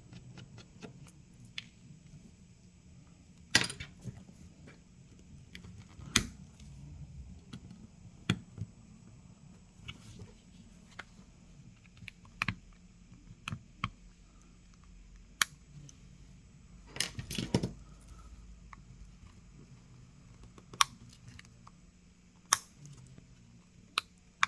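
Scattered light clicks and taps of small repair tools and screws against a smartphone's frame during disassembly. About a dozen sharp ticks are spread out irregularly, with a quick cluster about two-thirds of the way through.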